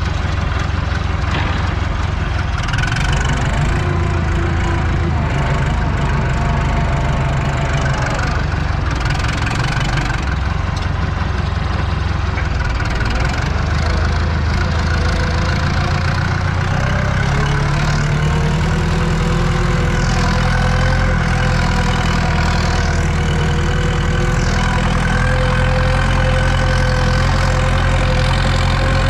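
Tractor engine running steadily as heard from inside the cab while cultivating, its note shifting about halfway through, with a steady whine in the second half.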